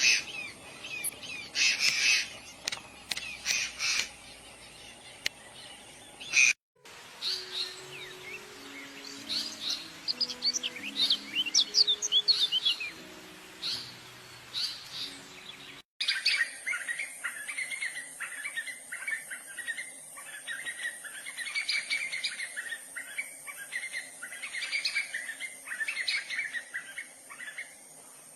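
Small birds chirping and singing, in three spliced clips that cut abruptly about a third and about halfway through. The middle clip has a few low held tones beneath the chirps, and the last has a steady high whine running under the song.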